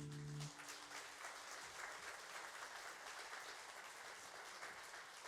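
Audience applauding after a song ends, a steady patter of many hands clapping; the band's last held chord dies out in the first half second.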